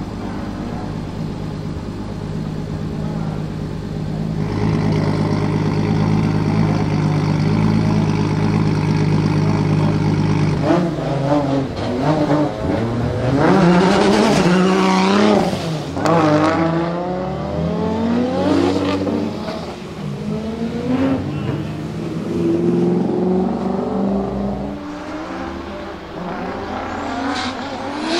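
Single-turbo Toyota 2JZ-GTE inline-six in a drift-built GT86 idling steadily, its note rising a little about four seconds in. About ten seconds in it revs and pulls away, the engine pitch repeatedly sweeping up and down, loudest a few seconds later.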